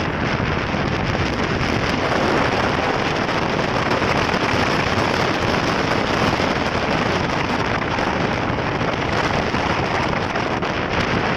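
Steady, loud wind rushing over the microphone of a motorcycle being ridden at about 40–50 km/h, drowning out the engine.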